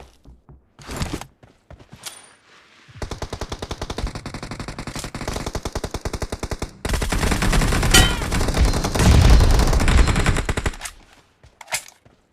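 Automatic weapon fire in a shooter video game. A fast, evenly spaced burst starts about three seconds in, turns louder and denser with a heavier low end for about four seconds, then stops near the end.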